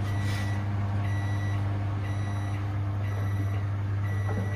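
Washing machine beeping to signal the end of its cycle: five even half-second beeps at one pitch, about once a second, over a steady low hum.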